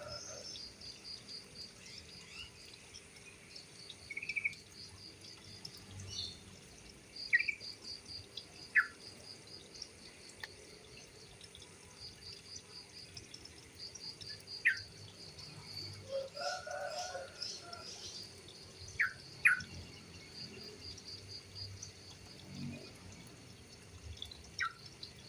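Yellow-vented bulbuls calling: short, sharp, falling chirps every second or two, over a fast, high pulsing trill.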